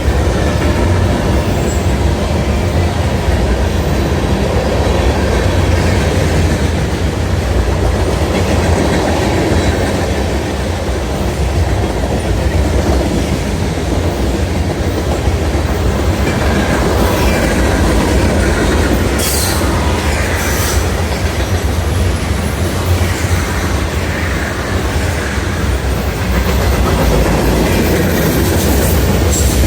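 Freight train rolling past, its wheels clicking over the rail joints, with a few brief sharp squeals about two-thirds of the way through.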